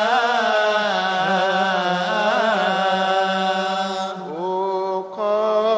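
A man's solo voice chanting Coptic liturgical melody in long melismatic lines, holding one vowel with ornamented turns. It breaks a little after four seconds in and rises into a new held note.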